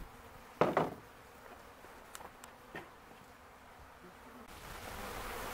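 Honey bee swarm buzzing as a steady low hum. A loud brief bump of handling comes about half a second in, and a few small clicks follow a couple of seconds later.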